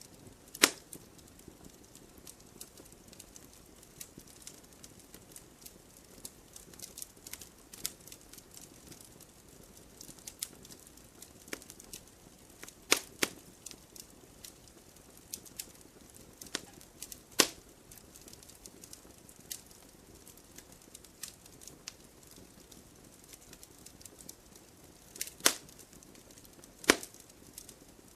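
Wood fire crackling in a fireplace: a steady run of small, irregular snaps over a faint hiss, with a few much louder pops from the burning wood.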